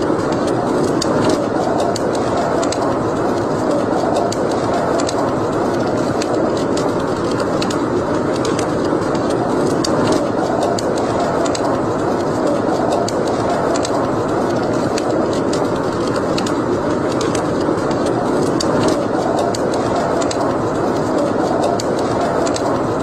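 Wood fire burning in a fireplace: a steady rushing noise with frequent small crackles and pops.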